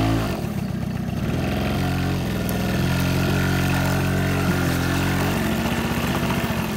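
Small vehicle engine running steadily, its note shifting in steps a few times as the speed changes.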